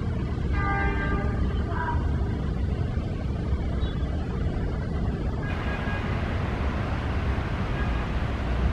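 Passenger train running on the rails, a steady low rumble, with a brief pitched tone about a second in.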